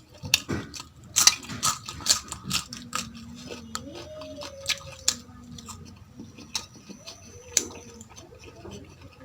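Close-miked eating: chewing, with sharp clicks of a utensil or dish against a plate, densest in the first three seconds.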